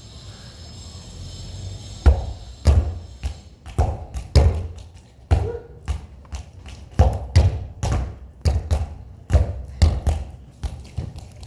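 Football being kicked and bouncing repeatedly. From about two seconds in there are dull thuds roughly every half second, irregularly spaced.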